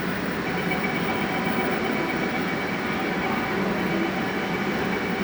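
Metro train running, heard from inside the carriage: steady running noise of wheels and motors, with a faint high whine.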